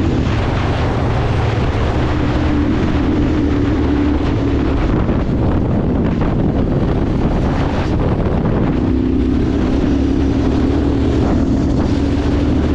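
Tractor engine running steadily under way on the road, with a constant drone and wind buffeting the microphone.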